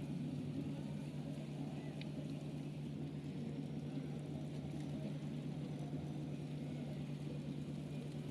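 Steady low hum of a large passenger ship's engines during berthing, over a constant background rumble.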